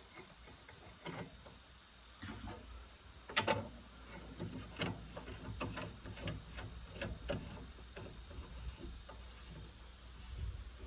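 Clicks and knocks from a Homelite chainsaw being handled during an attempt to start it, with one louder clatter about three and a half seconds in and a run of ticks after it. The engine does not start and run.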